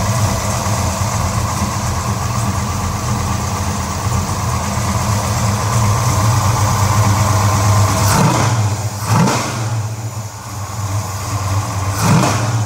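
Mopar 535 cubic-inch stroker wedge V8 with FAST EZ-EFI 2.0 fuel injection running at a steady idle, then revved in three quick throttle blips worked by hand at the linkage: two close together about two-thirds of the way through and one near the end.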